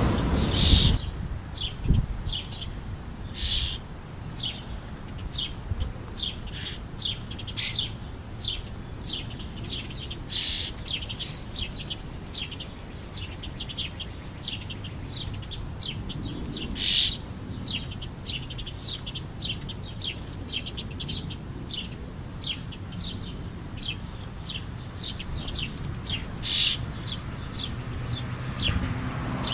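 Wild birds chirping over and over in short, high notes, with a louder chirp about eight seconds in and another near seventeen seconds, over a faint low background rumble.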